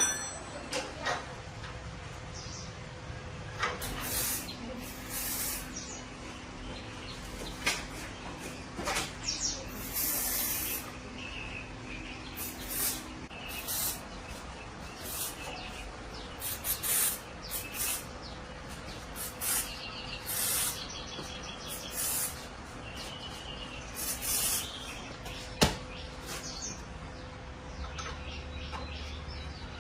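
Irregular short hissing strokes, one every second or two, from work on a bicycle part. Faint bird chirps sound in the background, and there is a single sharp click near the end.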